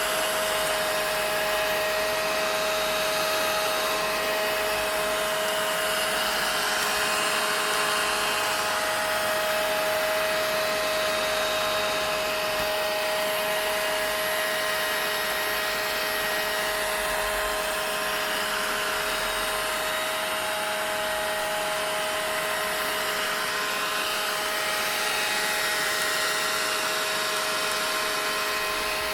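Vacuum cleaner running continuously: an even rushing whir with a steady whining tone, unchanging throughout.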